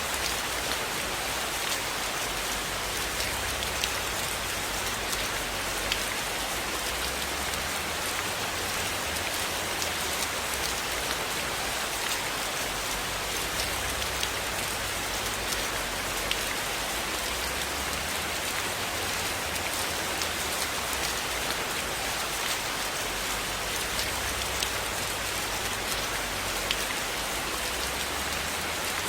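Steady heavy rainfall, an even hiss of drops with many scattered sharp ticks and a low rumble underneath, unchanging throughout.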